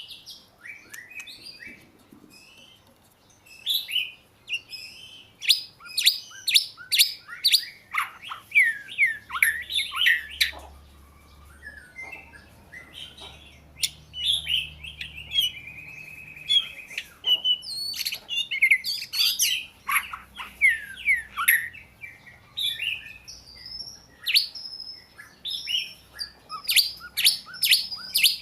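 Oriental magpie-robin singing: phrases of varied clear whistles and quick descending notes, broken by short pauses.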